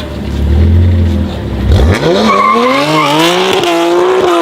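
Sports car engine accelerating hard. After a deep, steady rumble, the engine note climbs steeply from about two seconds in, dips briefly near three seconds as the gearbox shifts up, then holds at a high pitch.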